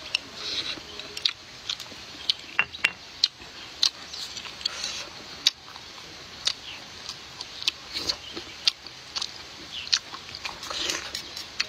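Close-miked chewing of crunchy food: irregular sharp crunches and clicks, a dozen or more, with short wet mouth sounds between them.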